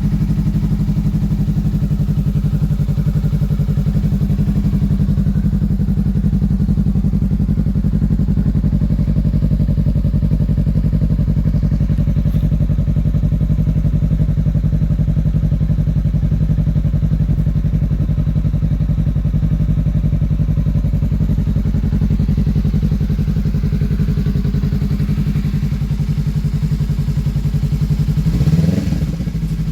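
Honda CMX500 Rebel's 471 cc parallel-twin engine idling steadily through a generic aftermarket muffler, with a short blip of the throttle near the end.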